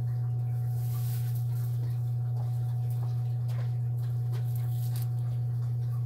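A steady low hum with a faint, higher steady tone running through it. A few faint light ticks come and go over it.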